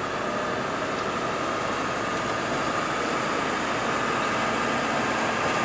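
Steady noise of a moving vehicle heard from inside the cabin: an even rumble and hiss with a faint steady whine.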